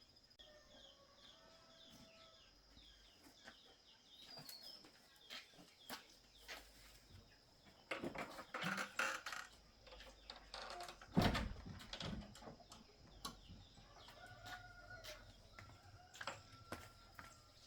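Chickens faintly crowing and clucking, with birds chirping. There is rustling about halfway through, and a single loud knock just after it is the loudest thing.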